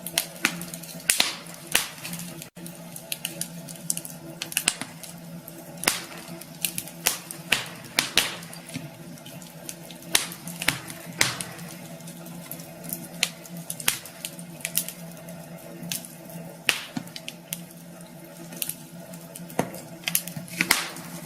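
Wood fire crackling in a fireplace: irregular sharp pops and snaps, several a second at times, over a steady low hum.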